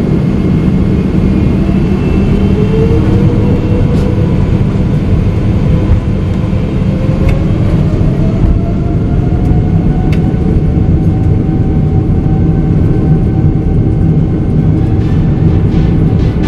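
Boeing 777-300ER's GE90-115B engines at take-off thrust during the take-off roll: a loud, steady rumble with a whine that rises in pitch over the first several seconds, then holds.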